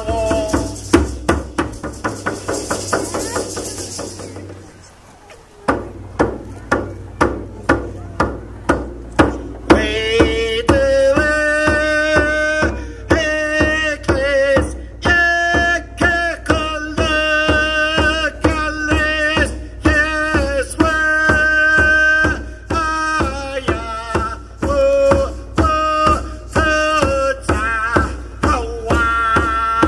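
A song with voices singing over a steady drum beat of about two to three strikes a second. The music fades out and dips briefly about five seconds in. The drum then comes back, and the singing joins about ten seconds in.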